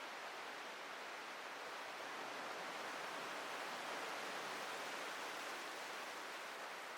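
Ocean surf washing on a beach: a steady hiss of breaking waves that swells slightly in the middle and eases off near the end.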